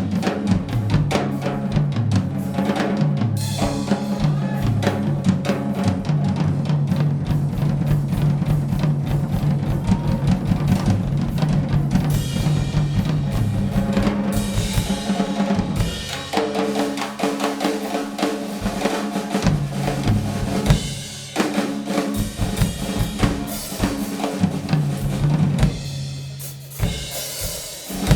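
A live band playing, with the drum kit prominent: dense bass drum and snare hits over a steady bass line. The music thins out about halfway through, breaks briefly, then comes back before fading toward the end.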